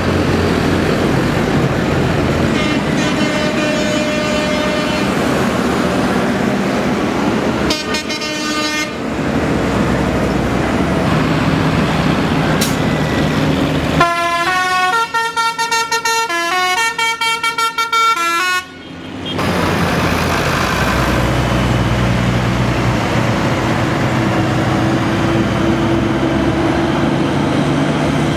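Tractor engines running as the decorated tractors drive past, with horn toots. About halfway through, a short tune of pitched notes stepping up and down plays for a few seconds before the engines come back.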